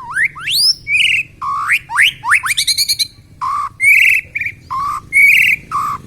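Young white-rumped shama (murai batu), just out of its spotted juvenile plumage, singing loudly: a run of fast rising whistled sweeps, then about halfway through a repeated phrase of a low steady whistle jumping to a higher warbled note, three times over.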